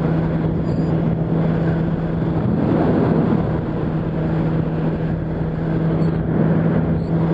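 Yamaha R1's inline-four engine running at a steady cruise, holding one constant note, under a steady rush of wind and road noise.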